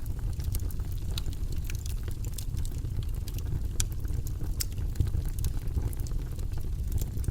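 Campfire burning with a steady low rumble and frequent irregular crackles and pops of burning wood.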